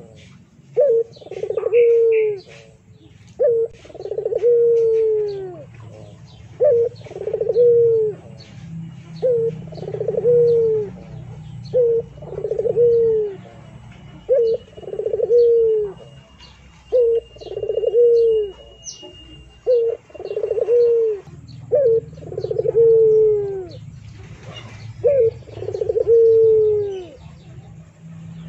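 A bird cooing over and over, about one call every two seconds, each a short note followed by a longer falling note, with faint higher chirping in the background and a steady low hum underneath.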